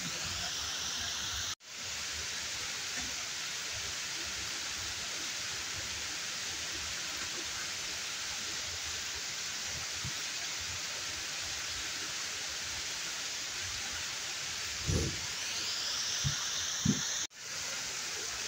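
Steady rushing of a waterfall, cutting out for a moment twice: about a second and a half in and near the end. A few soft low thumps come shortly before the end.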